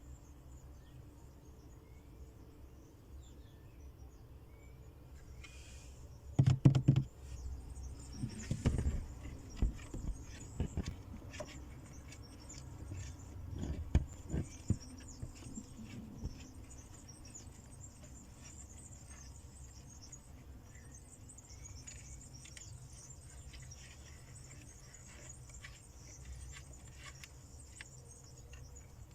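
Insects chirring steadily in a high, thin band, with a run of sharp knocks and rustling between about six and sixteen seconds in.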